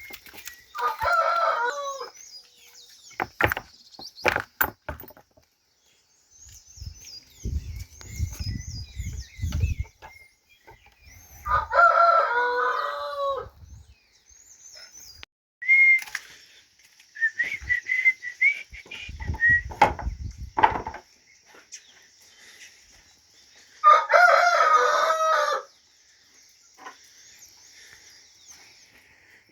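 Rooster crowing three times, about ten seconds apart, each crow lasting under two seconds. Low thuds and faint high bird chirps fill the gaps between crows.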